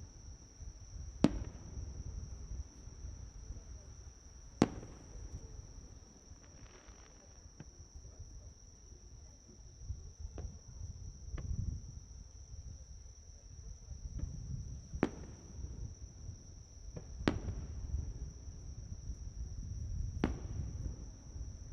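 Fireworks shells bursting in sharp bangs, about five loud reports spaced irregularly with fainter pops between them, over a steady high insect trill like crickets.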